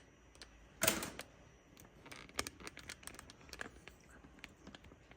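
Scattered light clicks and taps of things being handled, with one short rushing noise about a second in.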